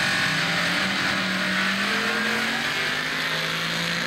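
TF Ford Cortina drag car's engine at full throttle, accelerating down the strip with its pitch climbing steadily.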